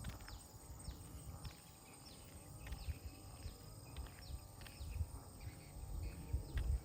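A bird calling over and over, a short falling chirp every half second or so, over a gusty low rumble of wind on the microphone.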